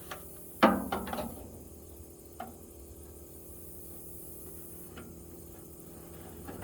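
A sheet-metal toolbox drawer clanks loudly once as it is set onto its slides, followed by a few lighter metallic clicks and a single small tick a couple of seconds later.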